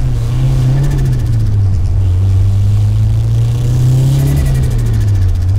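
Nissan S15 Silvia's tuned SR20 four-cylinder engine, heard from inside the cabin, droning steadily at low revs as the car is driven. Its pitch rises a little twice, about a second in and again about four seconds in.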